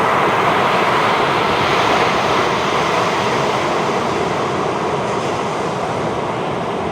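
Ocean surf on a beach: a steady, even rush of breaking waves with no separate crashes standing out.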